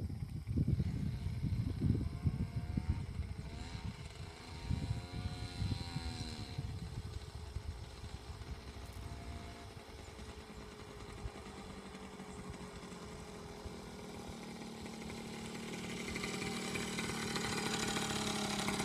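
Coleman mini bike's small engine revving, its pitch rising and falling once, with low rumbling gusts at first. Near the end the engine note holds steady and grows louder.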